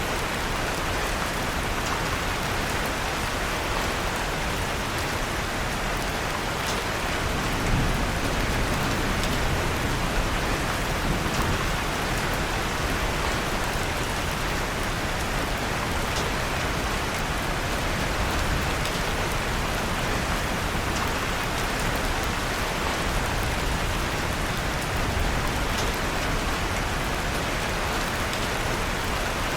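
Steady rain falling, with faint scattered crackles from a wood fire in a fireplace; the rain swells slightly about eight seconds in.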